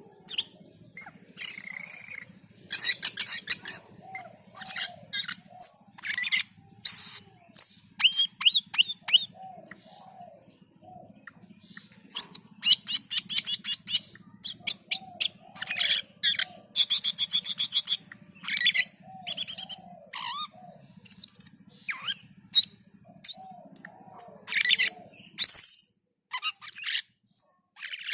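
Cucak keling singing in full voice (gacor): loud bursts of rapid chattering trills alternating with sharp sweeping whistles. A softer, short arched note keeps repeating underneath.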